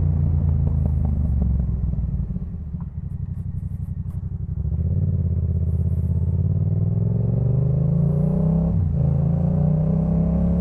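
Yamaha MT-07's parallel-twin engine through a Jeskap K4 full exhaust system. The throttle closes and the engine note drops and quietens for a couple of seconds, then the bike accelerates with the pitch climbing steadily. There is a quick upshift near the end, after which the pitch climbs again.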